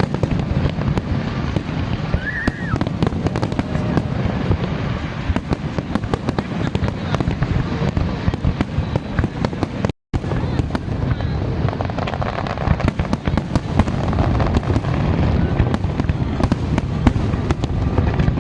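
Fireworks display: a dense, continuous barrage of bangs and crackles over a low rumble, cutting out for an instant about ten seconds in.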